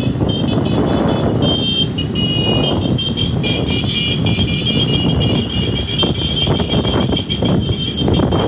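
Motorcycles running together in a group, a dense steady engine and road noise, with a high electronic tone that keeps breaking on and off.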